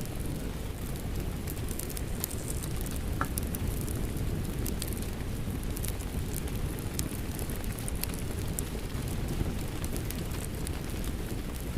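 Wood fire crackling with scattered sharp pops over a steady rumbling hiss of rain.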